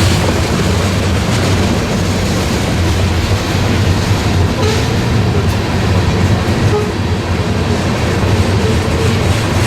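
A train's railcars rolling past at close range, a steady loud rumble with the wheels clacking over the rail joints.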